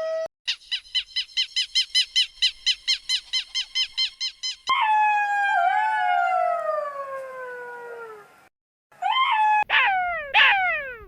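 An animal calling: a fast run of short pitched yelps, about four or five a second, then a long call sliding down in pitch, and near the end two shorter calls that each fall in pitch.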